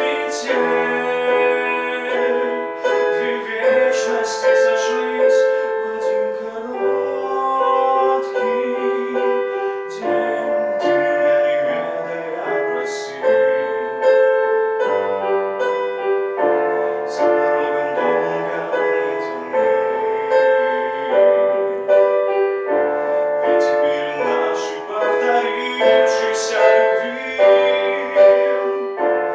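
Piano playing a slow, lyrical melody over held chords.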